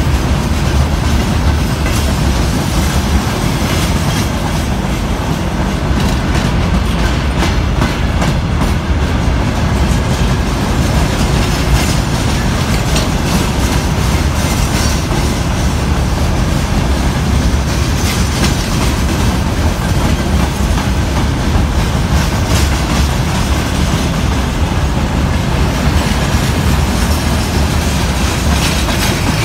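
Freight train of open-top gondola wagons rolling past close by: a steady rumble with wheels clattering over the rail joints.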